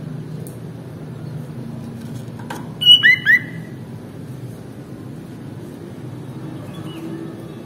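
Sooty-headed bulbul (kutilang) giving a quick burst of whistled calls about three seconds in: one sharp high note, then two short hooked notes. A faint call follows near the end, over a steady low background hum.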